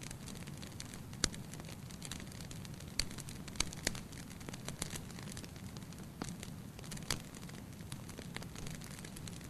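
Wood fire burning in a fireplace: a steady low hiss with irregular sharp crackles and pops.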